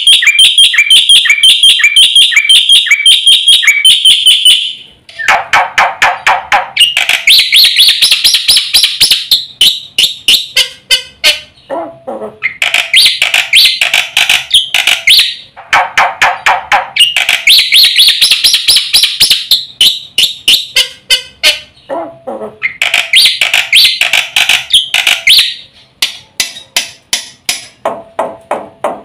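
Black-winged myna (jalak putih) singing loudly and fast: bursts of a few seconds of rapid repeated notes and clicks, with short gaps between them. The same phrases recur, as in a looped training recording.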